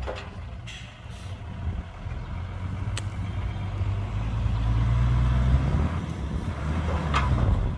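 Heavy diesel engine working under load, its low note climbing in pitch and growing louder over a couple of seconds, holding, then dropping off near the end.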